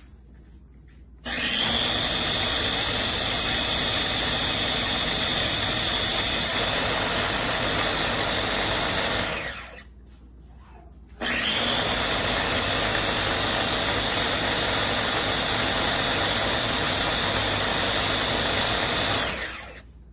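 The EVLA'S baby food maker's blender motor runs its automatic clean cycle in two bursts of about eight seconds each, with a short pause between. Each burst starts abruptly with a steady high whine and winds down at the end.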